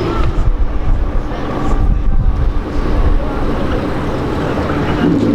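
A car's engine running with a low, uneven rumble.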